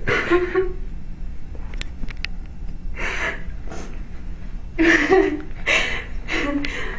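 A person crying: gasping, breathy sobs with short voiced whimpers, a few near the start and a quick run of them in the second half.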